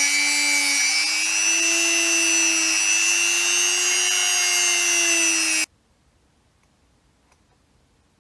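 Electric power tool running with a steady motor whine over a hiss, its pitch wavering slightly, then cut off abruptly about five and a half seconds in, leaving faint clicks.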